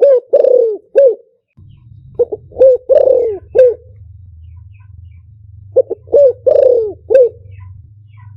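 Spotted dove cooing, a decoy call for luring wild doves. The bird gives three repeated phrases about three seconds apart, each a few short coos and one longer drawn-out coo. A low steady hum joins about a second and a half in.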